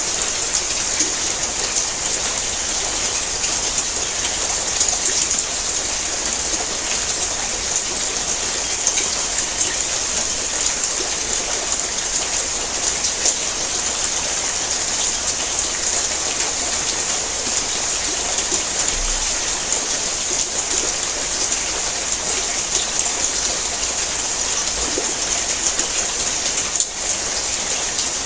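Heavy rain drumming on a tin roof: a steady, dense hiss of countless drops striking the metal.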